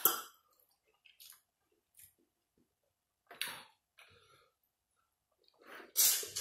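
Close-up eating sounds: wet chewing and lip smacking on sauced boiled shrimp. They come in short separate bursts with quiet gaps between, the loudest near the end.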